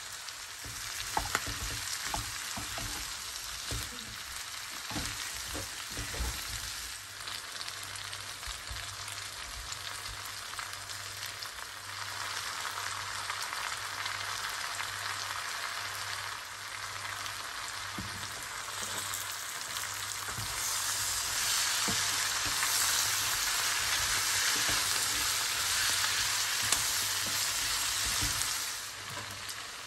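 Chicken pieces, green chillies and onion sizzling in hot oil in a frying pan, with a few knocks in the first several seconds. The sizzling grows louder in the second half and drops off shortly before the end.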